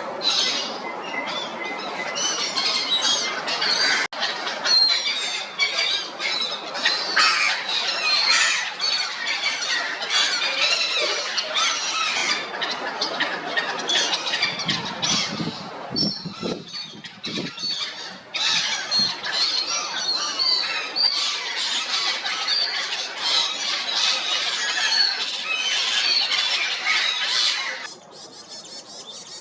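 Black-headed gulls calling, many calls overlapping as from a flock; the calling drops away sharply near the end.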